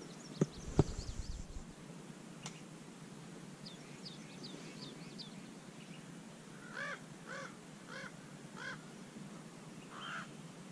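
Two sharp knocks about half a second in, then a bird calling in short calls, four evenly spaced about half a second apart and one more near the end, with faint high chirps before them.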